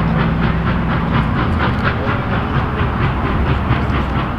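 Steam train running, with a quick even beat of about five a second over a steady low rumble.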